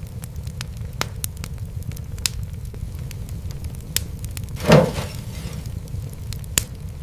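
Wood fire crackling: scattered sharp snaps over a steady low rumble, with one louder pop and a brief hiss about two-thirds of the way through.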